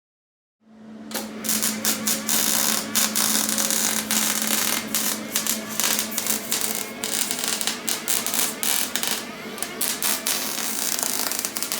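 Metalwork on a hay baler: a loud, harsh, irregular crackle broken by many short gaps, over a steady hum, starting abruptly.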